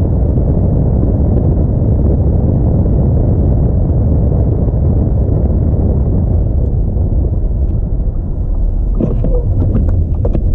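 Steady low rumble of an Audi A4 driving on a snowy road: tyre and engine noise. A few short clicks come about nine seconds in.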